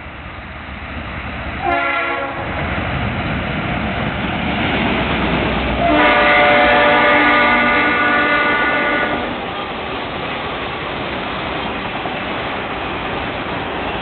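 Diesel freight locomotive's multi-note air horn: a short blast about two seconds in, then a long blast from about six to nine seconds, over the heavy rumble of the train. After the horn stops the steady rumble of the train passing continues.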